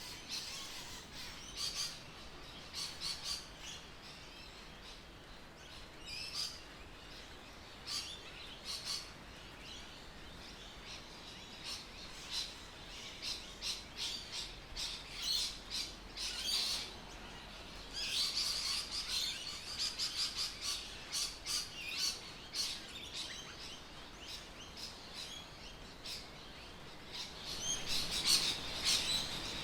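Birds chirping and calling: many short, quick chirps, busiest about two-thirds of the way through and again near the end, over a faint steady background hiss.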